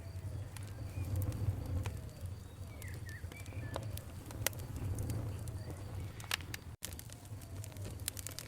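Campfire crackling, with frequent sharp pops over a low, steady rumble of the flames. Birds call in the background throughout. The sound cuts out for an instant about two thirds of the way through.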